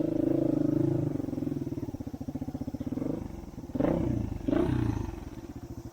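Off-road motorcycle engine running. About a second in it drops to a slow, pulsing low-rev putter, with two short throttle blips near the middle.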